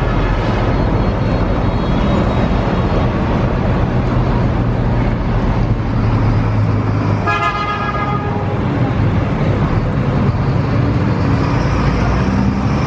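A steady, loud rushing noise with a low hum. About seven seconds in, a vehicle horn sounds once for about a second.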